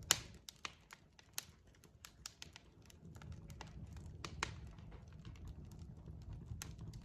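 Logs burning in a fireplace, crackling with irregular sharp pops over a low steady rumble; the loudest pop comes right at the start.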